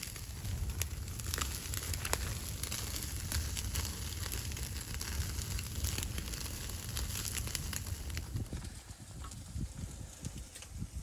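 Wood fire crackling with irregular sharp pops and snaps over a steady low rumble. The crackle thins out a little near the end.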